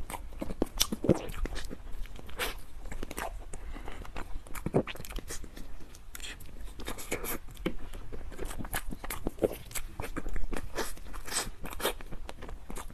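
Close-miked chewing and biting of a soft pink cream-filled bread bun: irregular wet clicks, smacks and squishes from the mouth, with soft tearing of the bread.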